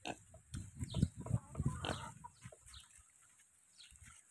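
Pigs grunting: a quick run of short, low grunts through the first two seconds, then quieter.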